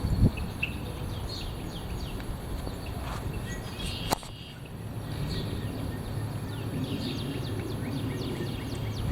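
Strong wind buffeting the microphone in a steady low rumble, with many small birds chirping in quick, falling notes throughout. A sharp click comes about four seconds in.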